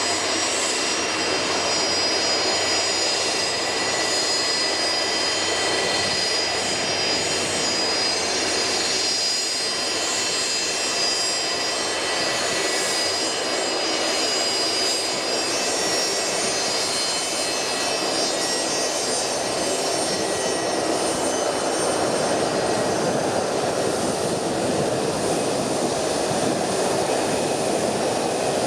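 Jet engines of a Gulfstream U-4 (a Gulfstream IV with two Rolls-Royce Tay turbofans) running steadily: a broad rush with a high, many-toned whine over it.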